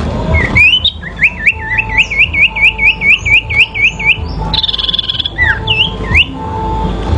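Sirpu songbirds singing in a song duel: a fast run of repeated curved whistled notes, about four a second, then a harsher buzzy phrase and a few scattered whistles.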